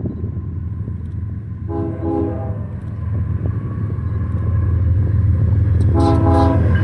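Approaching BNSF freight train led by an ES44AC diesel locomotive: a low engine rumble grows steadily louder, and the locomotive's multi-note air horn sounds twice, about four seconds apart, each time as two quick toots.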